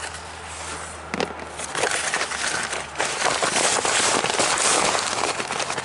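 Crackling, rustling handling noise of parts being rummaged through in a box, quieter at first and louder from about two seconds in.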